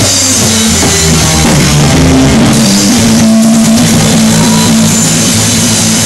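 Live instrumental jam by a trio of electric guitar, bass guitar and drum kit, playing loudly with cymbals and sustained bass and guitar notes, in a noisy recording.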